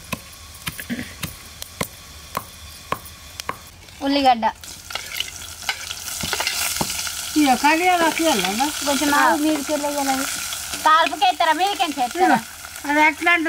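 Food sizzling in a hot pan while it is stirred, with scattered clicks of the stirring utensil against the pan in the first few seconds. The sizzle grows louder about five seconds in.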